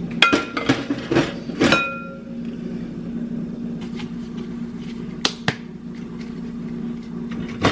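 Kitchen utensils clinking against a mixing bowl while cookie dough is made by hand: a quick run of sharp, briefly ringing clinks in the first two seconds, then a few single taps, over a steady low hum.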